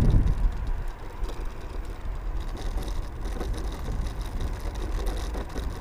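Wind buffeting the microphone and road rumble while riding a scooter, heavy for the first second and then easing to a steadier low rumble.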